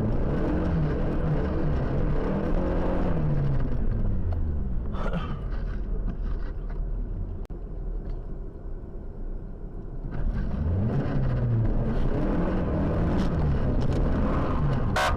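Car engine running under changing load, its pitch rising and falling as the car speeds up and slows. It eases off and goes quieter for a couple of seconds about halfway, then climbs again. A short sharp knock comes just at the end.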